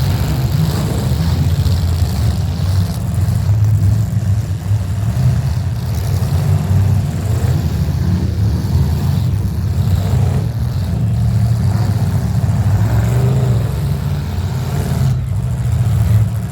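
Demolition derby vehicles' engines running and revving together, a loud steady low engine drone with small rises and falls.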